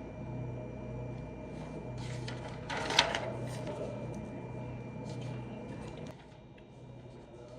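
A steady hum from a running appliance, with a brief clatter like a cupboard or drawer about three seconds in; the hum cuts off about six seconds in.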